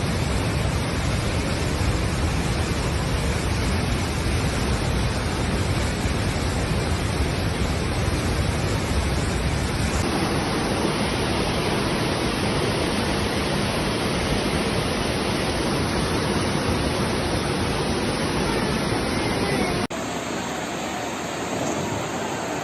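Rushing floodwater: a loud, steady roar of fast-flowing water. The sound changes abruptly about ten seconds in and again near the end, where one clip gives way to the next.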